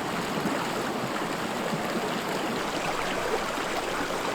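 Steady rushing of flowing water, an even noise with no separate events.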